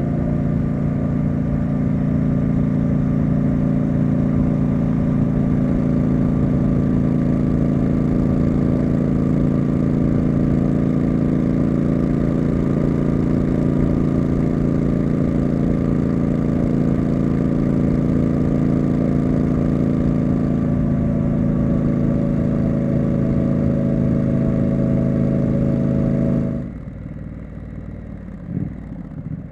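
Triumph Street Scrambler's parallel-twin engine and exhaust running at a steady engine speed while the bike is ridden, with a low rumble underneath. About three seconds before the end the engine sound drops away suddenly to a much quieter, wavering sound.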